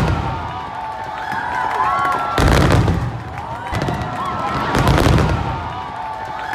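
Aerial fireworks display: deep booming shell bursts every couple of seconds, with crackling in between.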